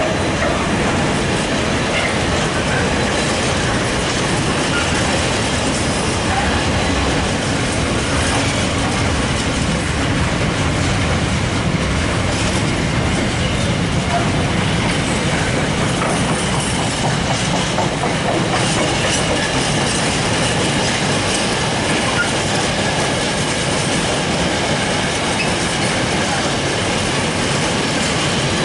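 Intermodal freight train of flat wagons loaded with shipping containers rolling steadily past: a continuous rumble and clatter of steel wheels on the rails.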